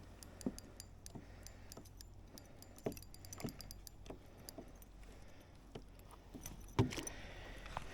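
Light metallic clicking and clinking as a netted fish and its lure are handled, with a firmer knock about seven seconds in.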